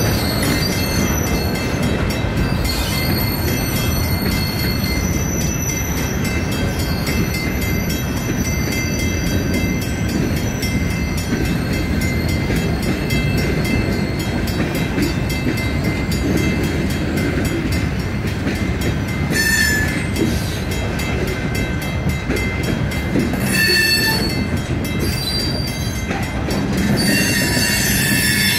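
Railroad cars of a CN freight train rolling past, with a steady heavy rumble of wheels on rail and high-pitched wheel squeal throughout. Sharper bursts of squeal come a little past the midpoint, again a few seconds later, and near the end.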